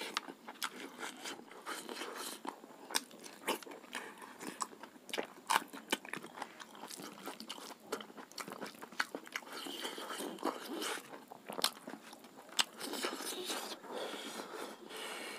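A person chewing a mouthful of rice, sukha roti flatbread and pork close to a clip-on microphone, with crunching bites and many irregular wet mouth clicks.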